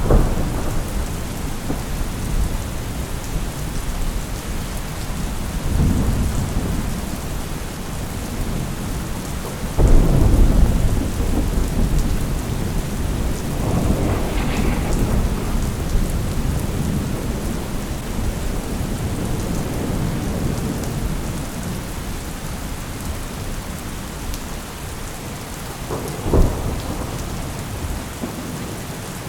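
Thunderstorm: steady rain with repeated rolls of thunder. A sudden crack about ten seconds in is the loudest, with further rumbles spread through and a short crack near the end.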